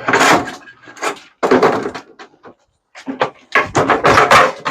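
Loud banging and clattering of a microwave oven's metal casing and parts as it is forced apart by hand, in several separate bursts.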